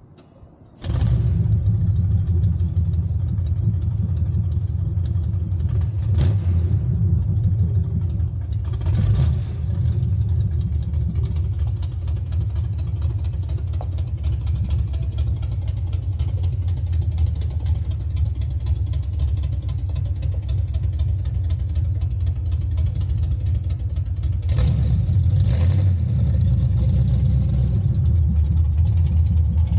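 Old truck engine running at a steady idle. It comes in suddenly about a second in and gets a little louder near the end.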